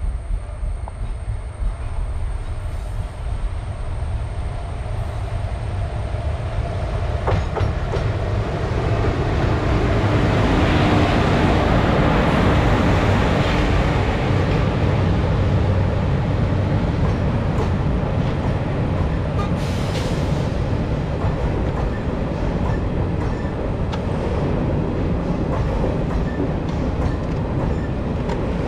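Passenger train hauled by a WAP-5 electric locomotive approaching and running past. It grows louder until the locomotive goes by about ten seconds in, then the coaches roll past with a steady rumble and wheel clatter.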